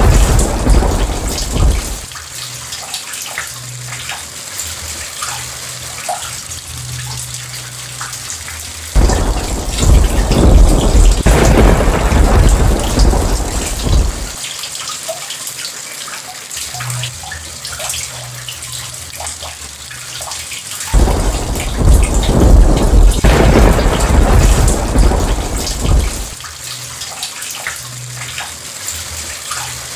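Steady rain falling, with rolling thunder rumbling through it three times. The first roll fades out in the opening seconds, the second comes about nine seconds in, and the third about twenty-one seconds in. Each of the later two lasts around five seconds.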